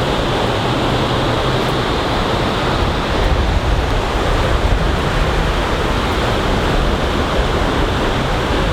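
Ocean surf washing onto a beach in a steady, continuous rush, with wind buffeting the microphone.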